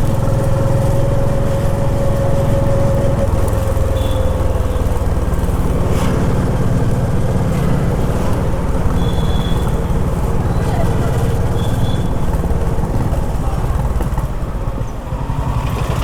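Honda H'ness CB350's single-cylinder engine running as the motorcycle rides through city traffic, a steady low thump with the note easing briefly near the end. Short high beeps from traffic come through a few times.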